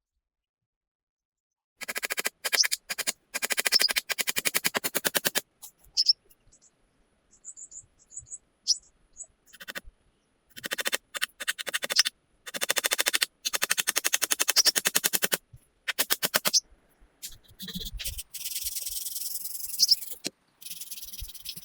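Rapid rattling clicks in repeated bursts of one to three seconds, with silent gaps between them; about eight bursts in all.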